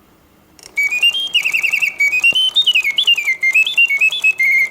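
Reuge singing bird cage's mechanical bird whistling, its bellows-driven whistle playing a song of stepped notes, quick warbles and trills that rise and fall. It starts after a short silence, about three-quarters of a second in, which is the mechanism's pause between songs.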